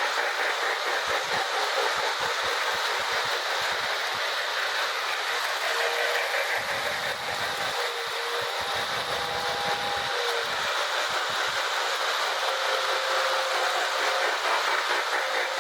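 Marx 1666 toy electric steam locomotives pulling their cars around tinplate track: a steady running rattle of motors and wheels with clicks over the rail joints, and a faint steady tone that comes and goes.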